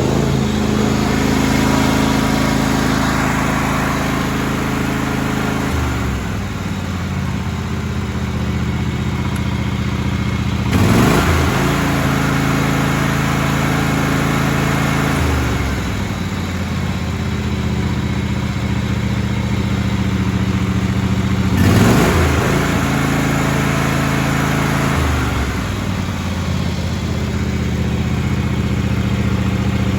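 John Deere LX277 lawn tractor's 17 hp two-cylinder Kawasaki engine running steadily. Its speed rises and falls in cycles: it revs up about a third of the way in and again about two-thirds in, and drops back to a lower speed three times.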